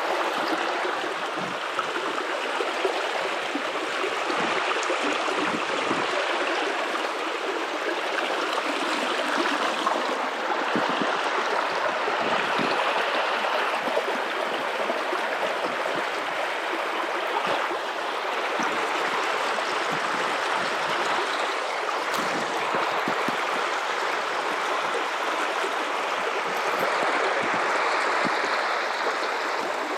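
Guadalupe River's water running steadily over rocks: an even rushing and gurgling of a shallow river.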